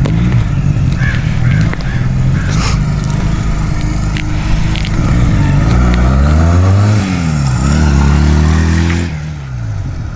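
Honda Rebel motorcycle engine running at idle, then revved twice: the pitch climbs and falls back in two sweeps past the middle, then settles to idle near the end. The bike is freshly running again after maintenance.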